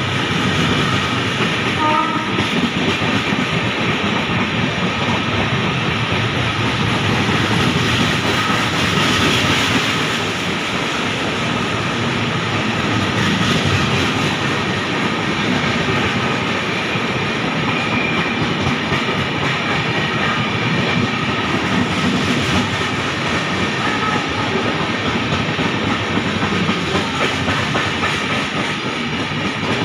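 A passenger train running past at speed, its steel wheels on the rails making a steady, loud noise.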